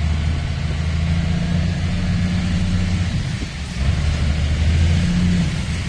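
Truck engine running with a steady low hum, easing off briefly about three seconds in.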